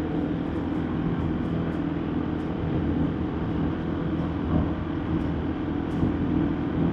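Motorbike engine running at a steady cruise, with a constant rush of road noise and no change in speed.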